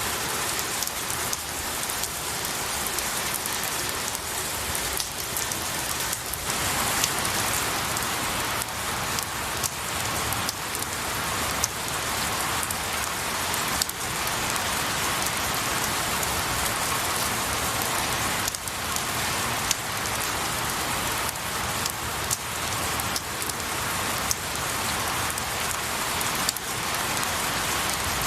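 Steady rain falling on pine needles and branches, a dense even patter with many individual drops striking close by.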